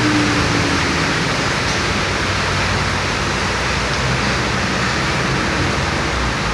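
Heavy rain pouring down, a dense steady hiss, with a low hum underneath and a tone that slides down at the very start.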